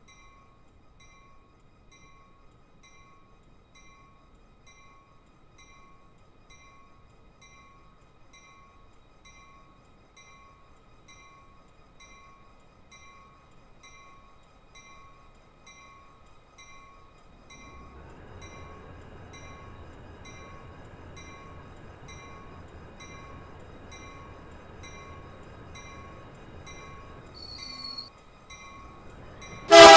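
A bell rings steadily at about two strokes a second while a CPKC freight train draws near; about 17 seconds in, the rumble of the train rises and holds. A loud train horn blast begins at the very end.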